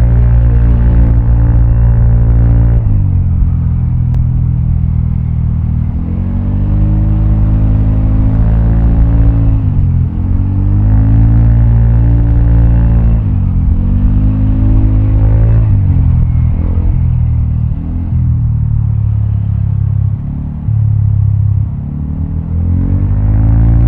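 Vespa automatic scooter's single-cylinder four-stroke engine through a Prospeed black CNC aftermarket exhaust while riding. The exhaust note climbs as the throttle opens and falls away when it closes, over and over.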